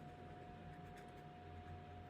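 Near silence: faint room tone with a steady high hum and a couple of faint ticks.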